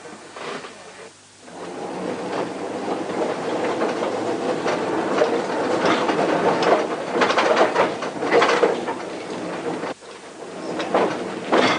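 Electric street tram running along its track, wheels clattering and rumbling over the rails. It grows louder from about a second and a half in, then drops off suddenly about ten seconds in before building again.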